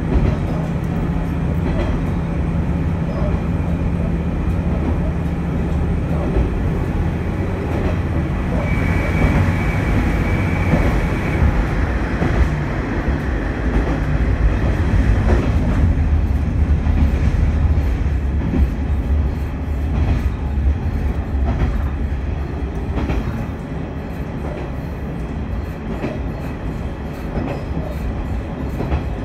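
Noto Railway diesel railcar running along the line, heard from inside the car: a steady low engine drone with wheels clicking over the rail joints. A brief high steady tone comes in about nine seconds in and stops a couple of seconds later. In the last few seconds the run gets slightly quieter and the clicks come more often.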